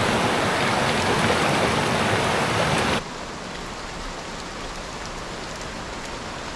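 Steady rush of water with no distinct sounds in it, loud at first and dropping suddenly about three seconds in to a quieter, duller rush.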